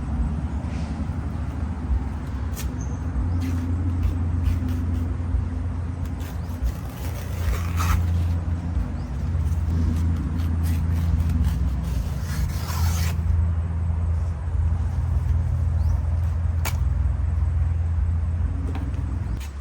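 A motor running steadily with a low, even hum. Scraping noises come twice, about seven and twelve seconds in, and there are a few sharp clicks.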